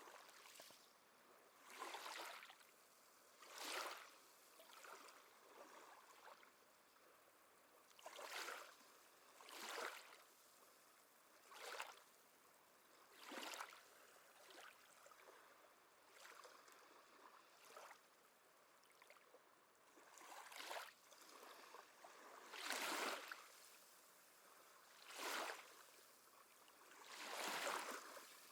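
Gentle sea waves lapping, about a dozen soft splashes that swell and fade at uneven intervals of one to three seconds.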